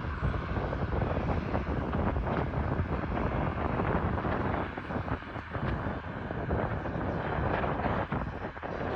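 Wind gusting on the microphone over the distant, steady sound of an ATR 72 turboprop's engines as it waits to begin its take-off run.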